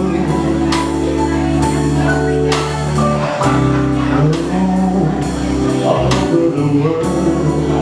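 Live band playing a slow soul ballad: held chords over a steady beat, with a drum hit about once a second.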